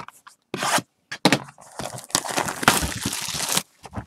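Baseball trading cards being handled: two short rustles, then about two seconds of continuous rubbing and crinkling as the cards slide against each other and their packaging.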